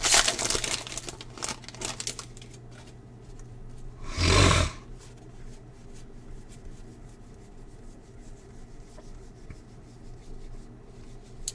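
Trading card packs and cards being handled: wrapper crinkling and rustling at the start, one loud short rustle or tear about four seconds in, then quiet handling of cards.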